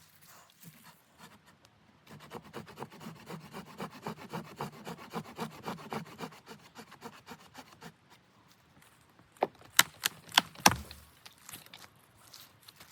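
Hand saw working through wood in quick, even back-and-forth strokes, followed about two seconds later by several sharp wooden knocks, the loudest sounds here.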